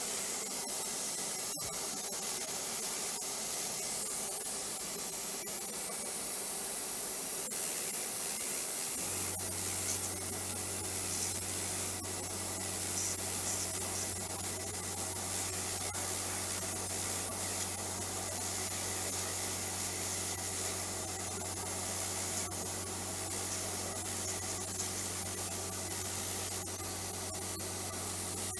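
Abrasive finishing disc on a dental handpiece trimming excess composite from a tooth restoration, a steady rubbing hiss. About nine seconds in a steady low hum joins and holds.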